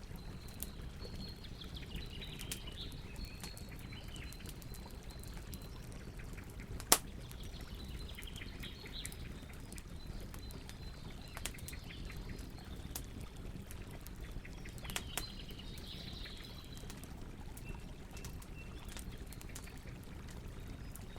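Campfire burning with a steady low rush and scattered crackles, one sharp, loud pop about seven seconds in. Birds chirp faintly now and then.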